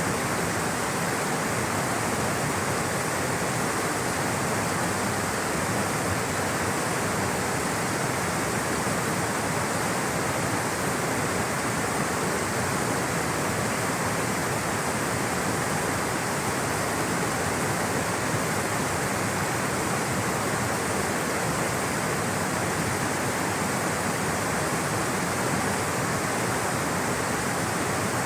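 Rushing water flowing steadily, a continuous even roar with no breaks or changes.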